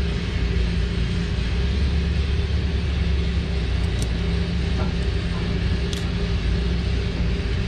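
Steady low mechanical drone with a constant hum from a running machine, and two faint light clicks about four and six seconds in.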